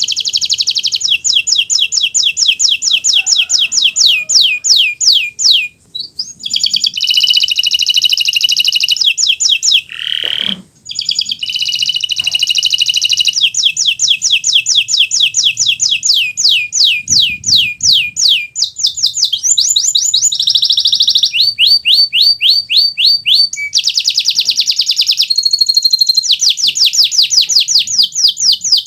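Kenari Nusantara canary singing a long, loud, nearly continuous song of rapid trills and rolls built from fast repeated sweeps, breaking off briefly twice.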